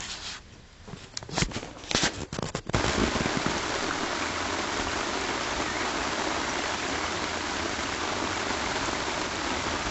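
Steady rain falling, an even hiss that sets in suddenly about three seconds in, after a few sharp clicks and knocks.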